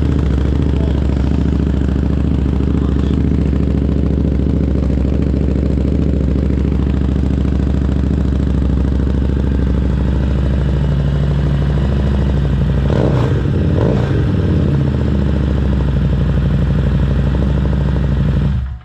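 V-twin motorcycle engine idling steadily through a freshly fitted Vance and Hines high-output slip-on muffler, with a couple of brief throttle blips about two-thirds of the way through.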